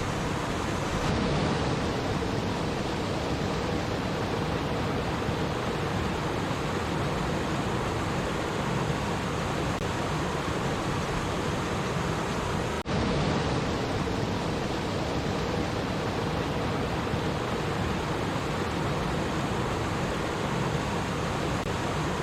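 Steady rushing and babbling of a flowing stream, with a momentary dropout about two-thirds of the way through.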